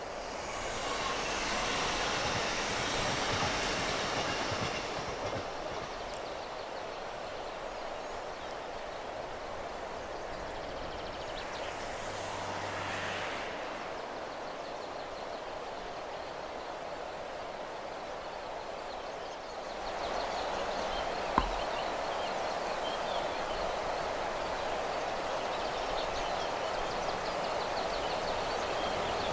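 ÖBB Railjet electric passenger train approaching along the line: the rumble and rush of its wheels on the rails grows louder over the last third as it nears. A steady rushing hiss is heard in the first few seconds.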